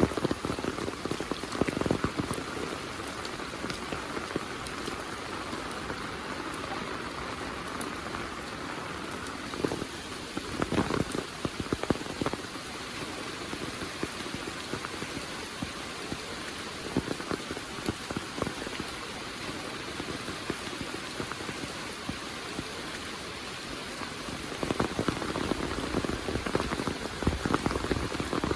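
Heavy monsoon rain pouring steadily, with louder close drops and splashes landing now and then. The rain swells louder for the last few seconds.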